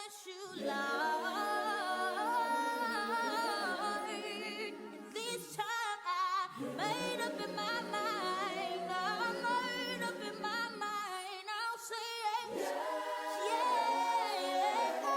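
A cappella choir singing, several voices in harmony without instruments, in three long phrases with short breaks between them.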